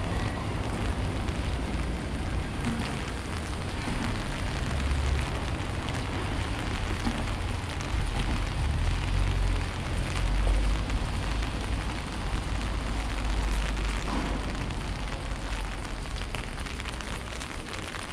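Steady rain falling, with a low rumble underneath that swells for several seconds around the middle.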